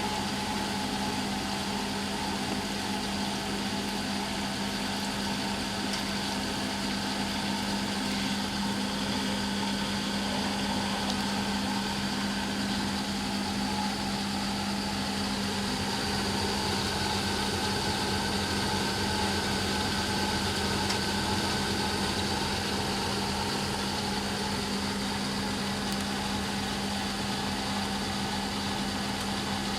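Eudora Sparmeister 702 Classic washing machine in its final spin, the drum running at a steady speed with an even motor hum.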